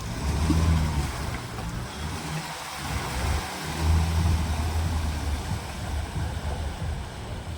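Off-road 4x4's engine running with a low rumble, swelling twice as it is given throttle, with wind noise on the microphone.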